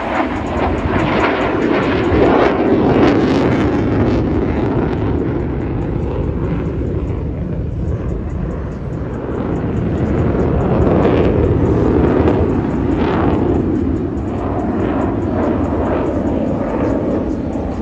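Loud, steady engine roar of a hovering aircraft, swelling a little about two seconds in and again past the middle.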